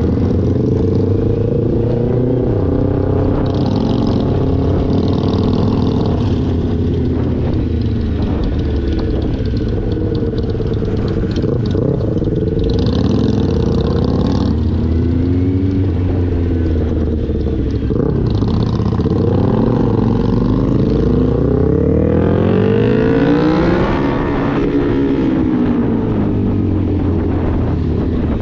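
Motorcycle engine running while riding, its pitch rising and falling several times as it accelerates and eases off, with the biggest climb and drop a little past twenty seconds in. Short patches of hiss come and go over it.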